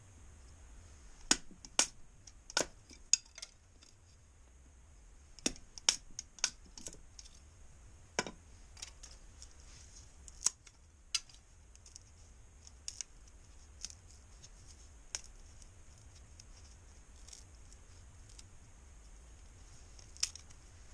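Dry cedar leaves and kindling snapping and crackling in irregular sharp clicks. They come thick over the first ten seconds, then only now and then.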